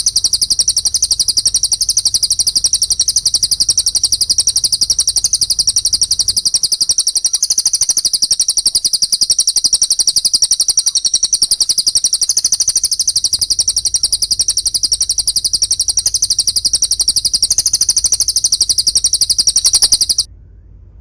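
Recorded songbird calls played for bird-song training: an unbroken, very fast run of high, shrill notes that cuts off suddenly near the end.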